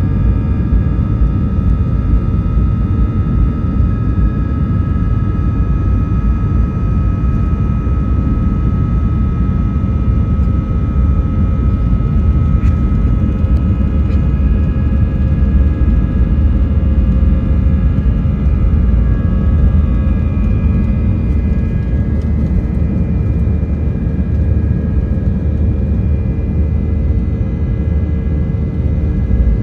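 Airbus A320's IAE V2500 turbofan engines at takeoff thrust, heard inside the cabin: a loud, steady rumble with several whining fan tones on top that dip slightly in pitch about twenty seconds in.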